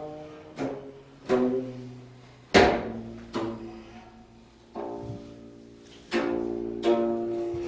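Korean plucked zither music: single plucked notes, each with a sharp attack that rings and fades, spaced roughly a second apart, with the strongest struck about two and a half seconds in. Near the end the notes come closer together and ring on.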